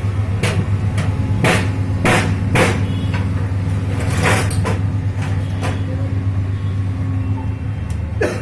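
Sharp metallic knocks and clanks from engine parts and tools being handled during engine assembly, several irregular hits with a cluster in the first few seconds and one more near the end, over a steady low hum.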